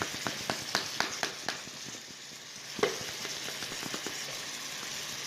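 Chicken fillets sizzling in melted butter in a frying pan, with a run of sharp crackles and clicks in the first second and a half and one more near the middle, then a steadier sizzle.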